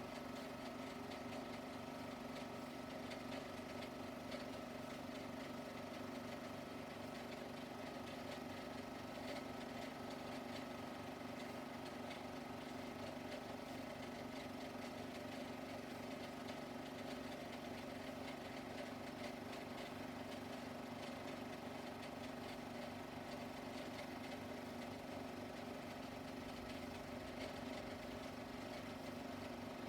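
Steady, unchanging mechanical hum and whir.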